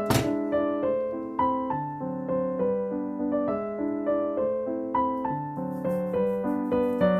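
Background piano music, a slow melody of single notes over held chords, with one short knock right at the start.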